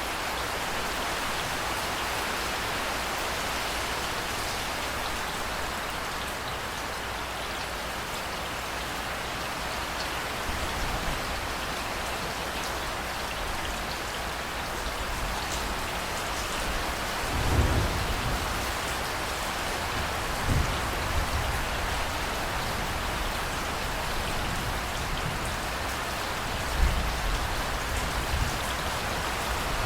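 Steady heavy rain hissing in a thunderstorm, with low thunder rumbling several times in the second half, loudest about two thirds of the way through.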